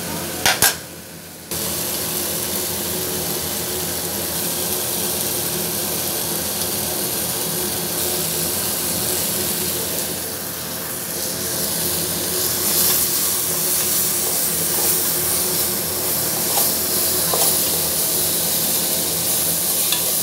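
Chopped tomatoes and spices frying in a pot, sizzling steadily while a spoon stirs them, with a few clinks of the spoon against the pot. Two sharp knocks come about half a second in.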